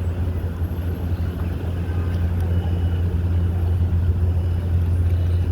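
A steady low hum with a faint, busy background over it.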